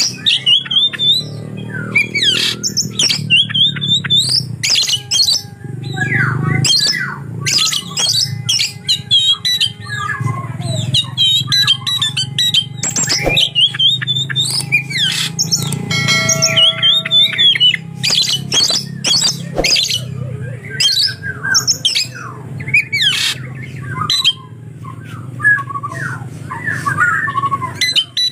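Oriental magpie-robin (kacer) singing a fast, varied song of sweeping whistles and harsh chirps, with lovebird calls woven in as mimicry.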